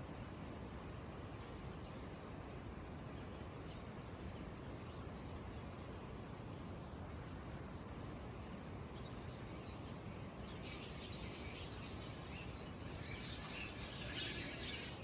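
Crickets chirring in a steady high-pitched drone, with a single sharp click about three seconds in. Bird chirps and calls join over the last few seconds.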